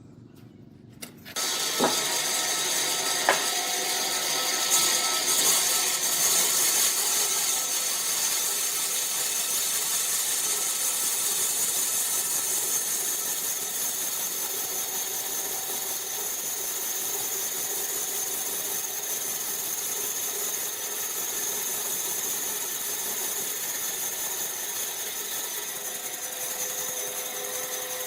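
A woodworking power machine switches on about a second in and runs steadily, with a constant high whine.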